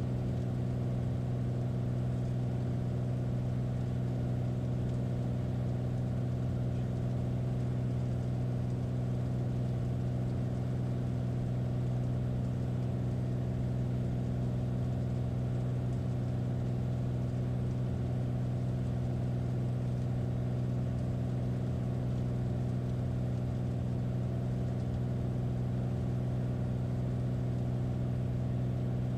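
Light airplane's piston engine and propeller droning steadily in the cabin, a constant low hum with no change in pitch, as heard in cruise or on approach power.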